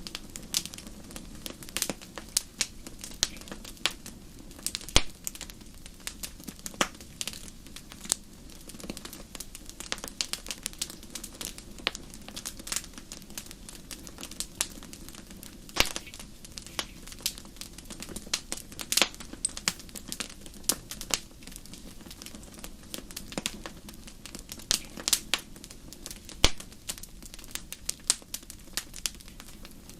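Wood fire crackling: irregular sharp pops and snaps, some much louder than others, over a low, steady rush.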